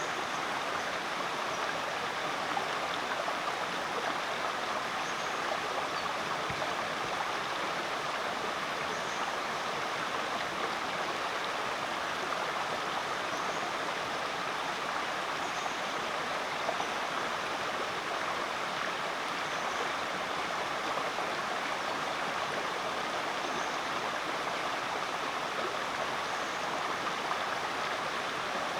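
Rainforest creek flowing steadily, a constant rush of water, with faint short high chirps every couple of seconds.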